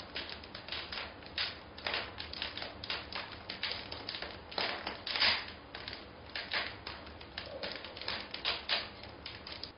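Rapid, irregular clicking and tapping, several sharp strokes a second, which cuts off abruptly at the end.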